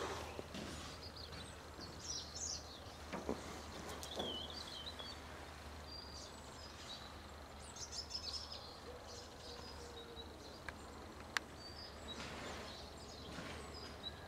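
Faint outdoor ambience with scattered short, high bird chirps and a low steady hum. A few sharp clicks break in, the loudest about eleven seconds in.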